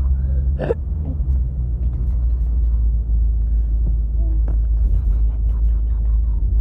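Steady low rumble of a car on the move, with a few faint clicks and knocks over it.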